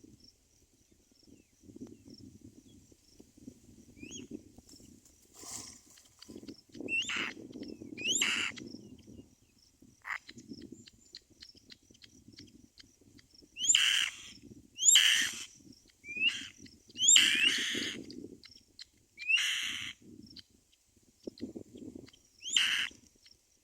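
Baby birds in a nest calling in repeated loud, high bursts of half a second to a second each, over a low rustling.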